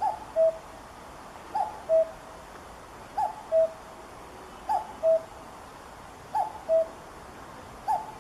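Common cuckoo calling "cu-ckoo" six times, a higher short note dropping to a lower held note, repeated about every second and a half over a steady hiss.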